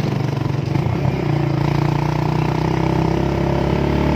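Motorcycle engine running under way. Its note settles about a second in, then holds steady.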